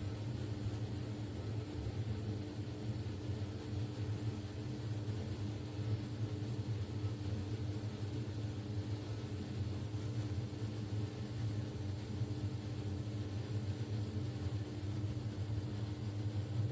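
Steady low mechanical hum and rumble with a constant tone above it, unchanging throughout.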